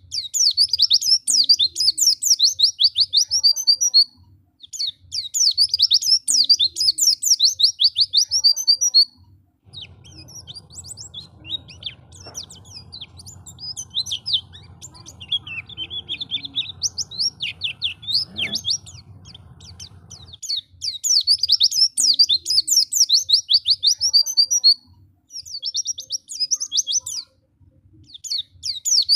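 White-eye (pleci) singing: fast, high twittering phrases in bursts a few seconds long, separated by short gaps. Through the middle the song drops to softer, sparser calls over a faint low hum, then the full twittering bursts return.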